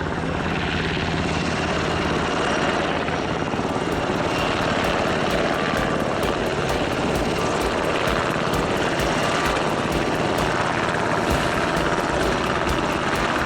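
Military helicopter flying, its rotor beating in a steady rhythm over the turbine engine noise.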